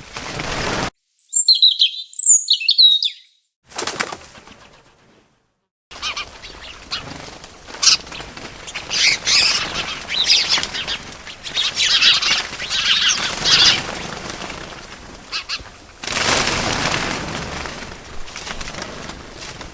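Small birds chirping: a few clear, quick sweeping chirps first, then a longer stretch of busy high twittering. There are rushes of wing flapping at the start and again near the end.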